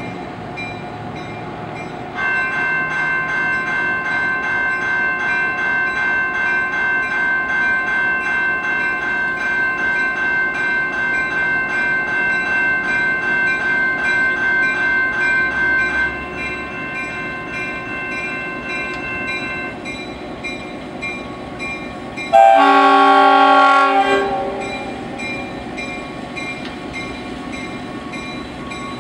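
Diesel locomotive running as it pulls a passenger train away, with a bell ringing in quick, even, repeated strokes for the first half. Near the end comes a single loud chord blast on the air horn, about a second and a half long, the loudest sound.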